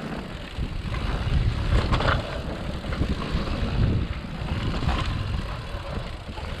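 Wind buffeting the microphone over the rumble and rattle of a mountain bike rolling fast down a rough dirt trail.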